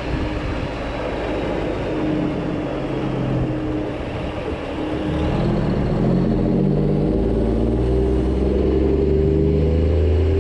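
A motor vehicle's engine running, growing louder over the second half with its pitch rising in steps.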